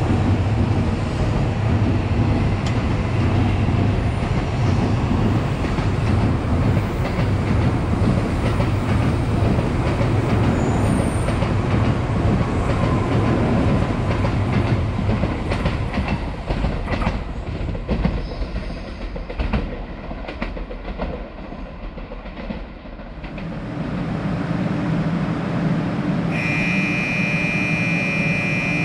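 N700A Shinkansen train running past at platform level with a steady heavy rumble; after about fifteen seconds the wheels clack over rail joints as the last cars go by, and the sound fades away. A stationary train's steady hum follows, with a high steady tone starting near the end.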